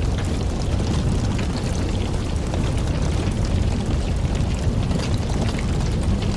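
Wood campfire burning: a steady low rumble of the flames with frequent small crackles and pops from the burning logs.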